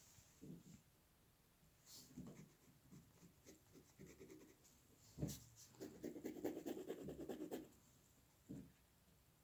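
Drawing strokes on paper: scattered single scratchy strokes, then past halfway a quick flurry of rapid back-and-forth strokes lasting about two seconds.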